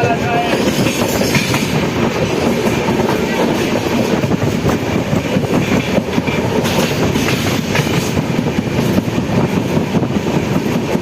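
Train running on the rails: a steady, loud rumble with the rattle of wheels and carriages.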